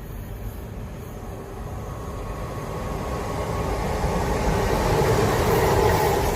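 Train approaching: a low rumble with a faint hum in it, growing steadily louder from about a second and a half in.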